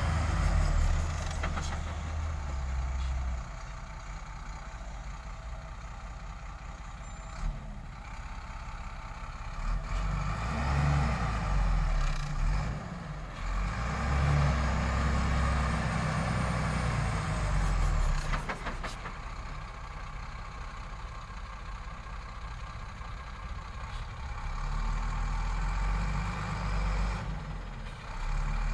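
A heavy dump truck's engine running and revving up in bouts, loudest in a long stretch midway, as the truck tries to pull out of mud.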